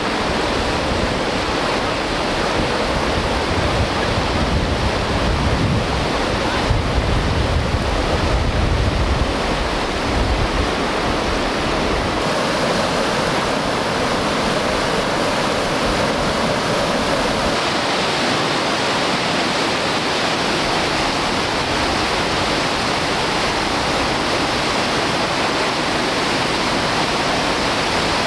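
Whitewater rapids of the Green River rushing steadily, with an extra low rumble for roughly the first ten seconds.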